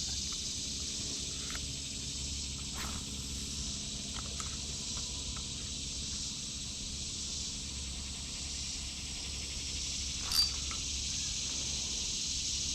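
Steady, dense high-pitched chorus of insects, with a few faint clicks.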